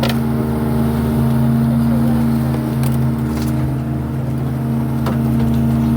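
Boat engine running at a steady speed, a constant hum, with a few sharp knocks or clicks on board, about three seconds in and again about five seconds in.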